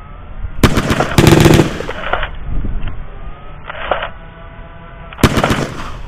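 Two bursts of rapid machine-gun fire: a longer one of about a second and a half soon after the start and a shorter one near the end. The bursts stand out from the rest of the soundtrack in brightness, the mark of a gunfire sound effect laid over a Nerf battle.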